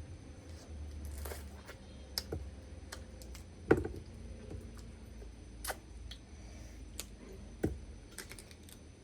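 Mud crab being eaten: scattered sharp cracks and clicks of crab shell breaking, with the loudest crack a little under four seconds in and another near the end.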